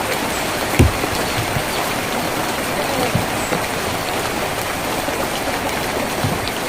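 Steady rain falling on a tin roof, with a few heavier drops landing as short low knocks.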